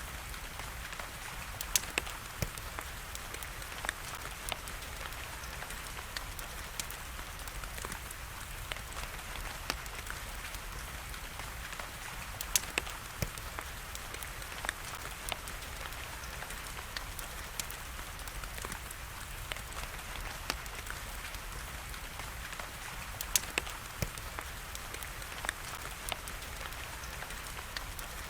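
Steady rain hiss with a wood fire crackling over it, sharp pops scattered irregularly throughout, a few of them much louder than the rest.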